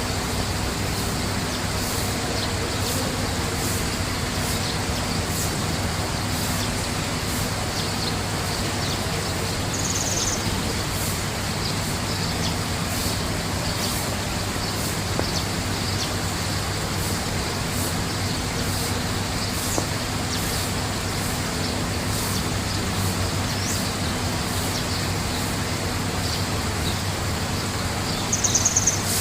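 Short high bird chirps, one about ten seconds in and a louder one near the end, over a steady, even noise like distant traffic or running water.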